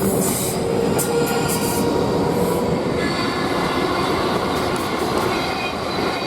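Train passing through the station: a steady rumble of wheels on the rails, with thin, steady wheel-squeal tones running over it.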